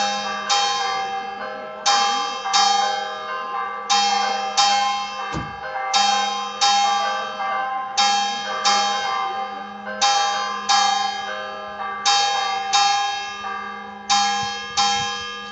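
Church bells ringing in pairs of strokes about half a second apart, a pair every two seconds, each stroke ringing on; the last pair sounds near the end and fades out.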